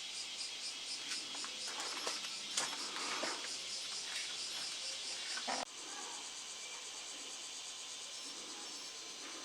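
Crickets chirping steadily in a fine, rapid pulse, with a few sharp clicks and knocks in the first half; the overall sound drops suddenly a little over halfway through.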